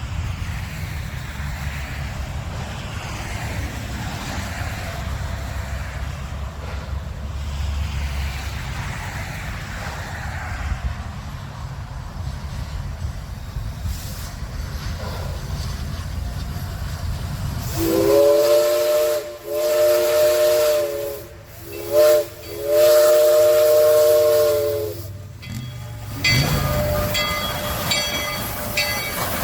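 Steam locomotive's chime whistle sounding the grade-crossing signal: two long blasts, a short one and a long one, several notes at once, after a steady low rumble.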